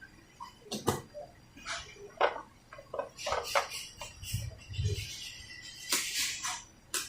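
Scattered clicks, taps and rustles of a sewing machine control board and its power leads being handled and connected, with a couple of low thuds about two thirds of the way through.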